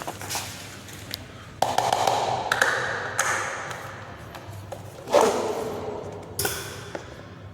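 Table fan being handled: about five hard knocks and clunks, each ringing briefly before it fades, over a faint steady low hum.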